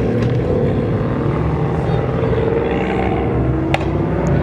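2JZ-swapped Mazda RX-7's inline-six engine running loud with a deep, steady exhaust rumble. A single sharp click comes a little under a second before the end.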